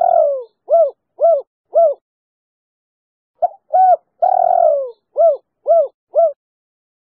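Female spotted dove cooing its three-note 'kuk 3' call. The phrase runs as two short coos, a long falling coo, then three short, evenly spaced coos. One phrase ends in the first two seconds, and the whole phrase repeats about three and a half seconds in.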